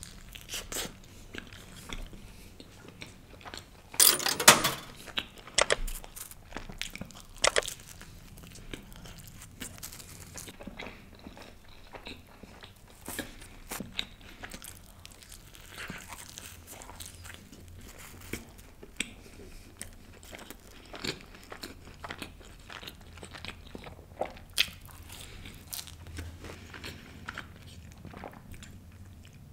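A man biting into and chewing a slice of pizza. There is a loud crunchy bite about four seconds in, more bites soon after, then softer, irregular chewing clicks and smacks.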